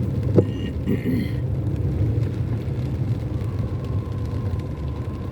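Steady low rumble of a car's engine and road noise heard from inside the cabin in slow traffic, with a single sharp click about half a second in.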